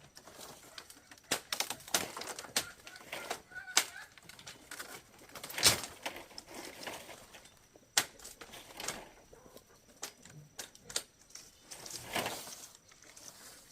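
Irregular knocks and taps of work on a wooden chicken coop, the loudest about six and eight seconds in, with chickens clucking now and then.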